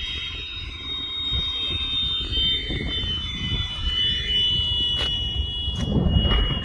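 Electric ducted fan of a Freewing Avanti S 80mm RC sport jet whining high in flight, its pitch sliding slowly down, over a rumble of wind on the microphone.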